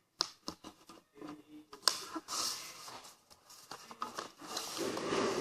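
A sheet of paper being handled and folded by hand, with sharp crackles and rustles as it is creased.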